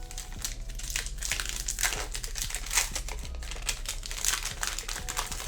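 Panini Absolute Football trading-card pack wrapper being torn open and crinkled by hand: an irregular crackle with a few sharper crinkles in the middle.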